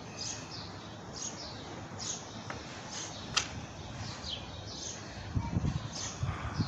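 Small birds chirping, short falling chirps repeated a few times a second. A low rumble, like wind on the microphone, comes in near the end.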